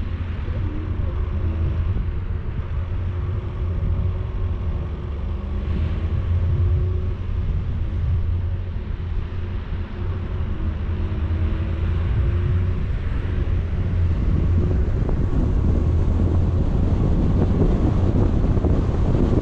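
Vehicle engine running steadily with low road rumble while driving a mountain road, the engine note wavering a little; wind noise on the microphone grows louder toward the end.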